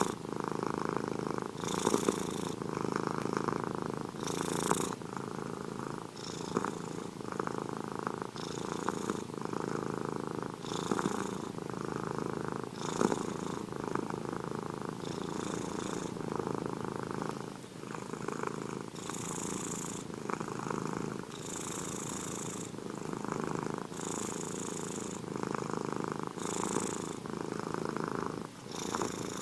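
Domestic cat purring steadily, the purr swelling and easing with each breath in and out, about once every two seconds.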